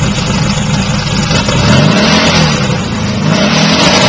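Turbocharged 1835 cc air-cooled VW flat-four with a blow-through turbo setup, running on a test stand and revved twice: the pitch rises and falls about halfway through and again near the end.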